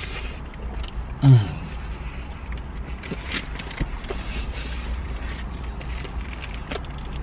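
Eating sounds inside a car: chewing with scattered small clicks and rustles of a sandwich and its wrapping, over a steady low rumble. A short voice sound comes about a second in.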